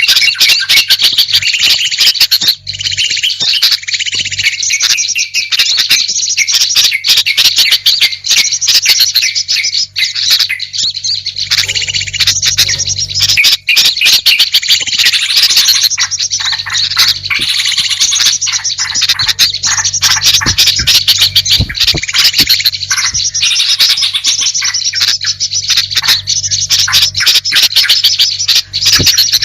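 Dense, unbroken chirping and chattering of many small birds: a bird-lure recording (suara pikat) mixing calls of small songbirds such as bulbuls, used to draw wild birds in. A faint steady low hum runs underneath.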